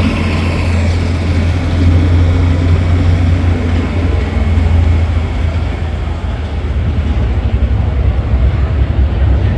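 A big engine running steadily with a deep rumble, growing rougher about six seconds in.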